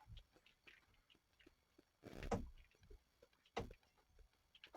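Near silence with a few faint knocks and shuffles, the clearest about two seconds in and again about three and a half seconds in.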